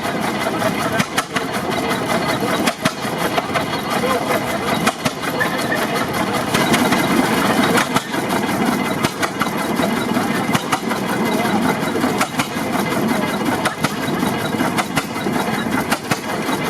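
The engine of a 1927 Eagle 40 HP tractor running steadily, with a busy clatter of many irregular ticks from its works.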